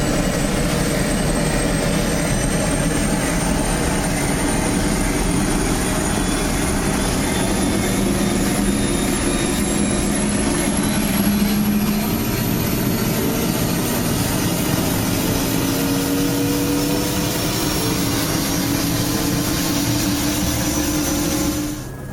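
Helicopter running steadily, a loud even engine-and-rotor noise with a thin high whine that slowly rises in pitch. The sound drops away suddenly near the end.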